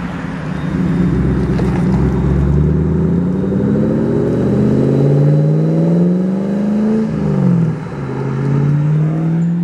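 Car engine accelerating: its pitch climbs for several seconds, drops sharply about seven seconds in as in a gear change, then climbs again.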